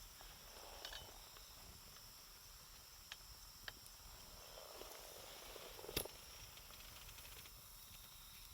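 Wood campfire burning quietly, with a few small pops of crackling wood and one louder crack about six seconds in.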